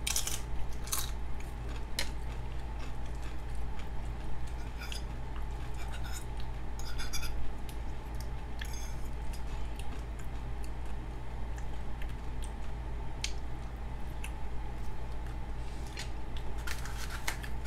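Close-up eating: a bite into food, then chewing with scattered short crunches and clicks, over a steady low hum.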